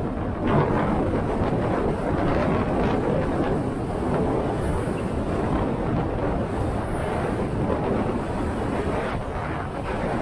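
Wind rushing over the microphone of a moving motorcycle, mixed with the engine and road noise of the ride, steady throughout with small surges.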